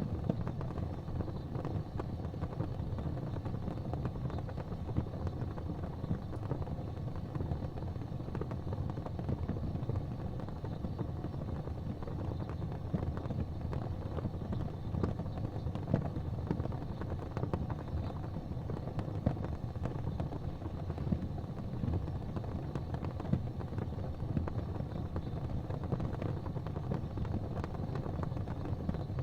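Gas fireplace flames burning with a steady low rumble, with faint scattered crackles.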